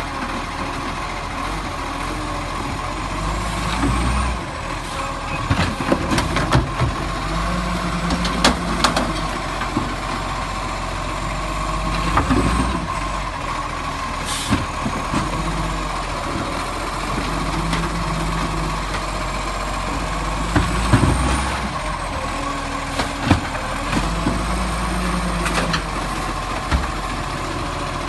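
Garbage truck running, with its engine note rising and falling in repeated stretches of a couple of seconds, scattered knocks and clanks, and a short hiss of air about halfway through.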